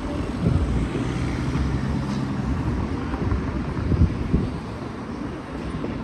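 Horse-drawn carriage rolling through city streets: a steady low rumble of wheels and street traffic, with scattered small knocks.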